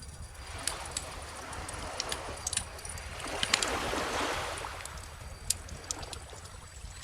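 Gentle ocean waves washing in and out, one swell building to its loudest about four seconds in, over a crackling wood fire with sharp pops scattered throughout.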